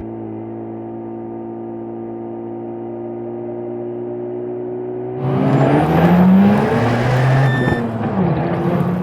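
Mazda FD3S RX-7's twin-turbo 13B rotary engine heard at its stock muffler: it runs steadily with slowly rising revs, then about five seconds in goes to full throttle and gets much louder, pitch climbing, with a short dip near the end as it shifts up before pulling again.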